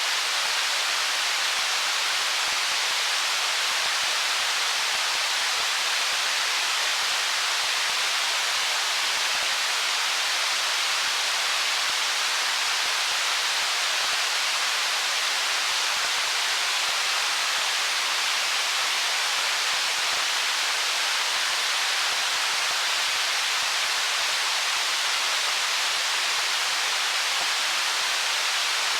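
Stream water flowing over stones: a steady, even rush with no separate splashes or changes.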